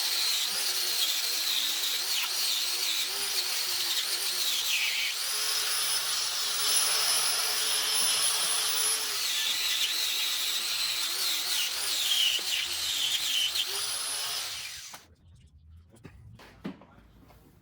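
Power tool running with a high whine whose pitch sags and recovers as it is loaded, cutting off about fifteen seconds in.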